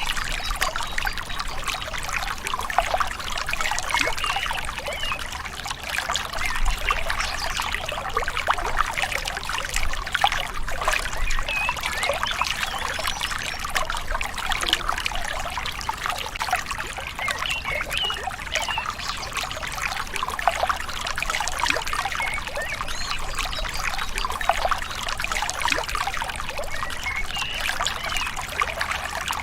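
Gently flowing river, water trickling and gurgling steadily with a dense patter of small splashes.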